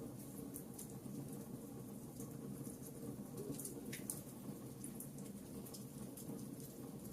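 Wood fire crackling: frequent small, irregular pops and snaps over a steady low rush of burning.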